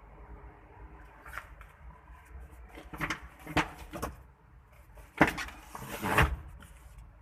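A handful of short clunks and knocks from the light truck's body being handled, the loudest two about five and six seconds in.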